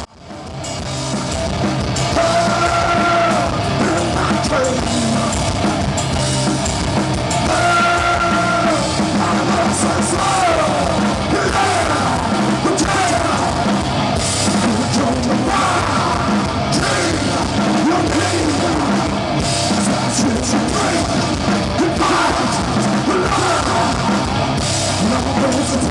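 Loud rock music with a drum kit and a singer, some notes held long and some shouted.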